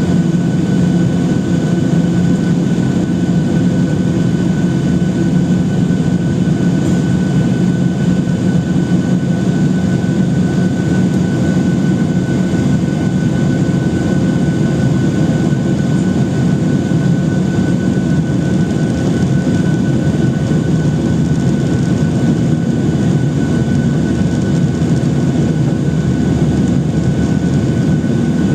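Steady cabin noise inside a Boeing 737-800, with its CFM56-7B engines running at an even, low setting: a constant low hum with a thin, high steady tone over it.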